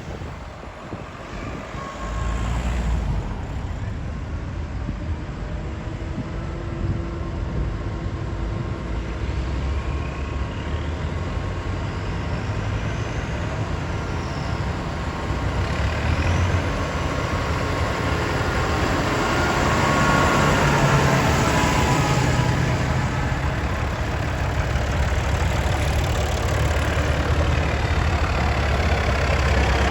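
Vintage tractor engines running as the tractors drive along the road, getting louder toward the end.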